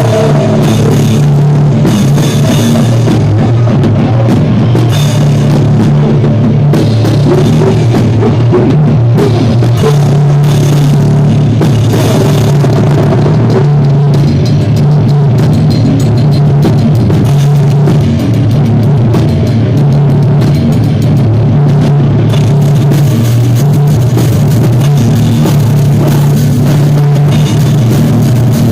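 Live rock band rehearsing a song: drum kit with bass drum and cymbals driving over a loud, steady low bass line, recorded very loud and overloaded.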